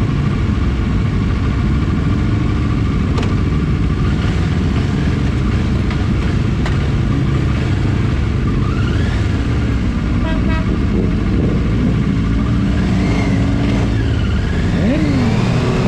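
A group of motorcycles running together: a steady low engine rumble, with some bikes revving up and down now and then.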